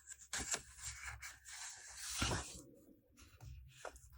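Paper rustling and rubbing as a sketchbook page is handled and turned, a string of short scratchy rustles with a louder sweep about two seconds in.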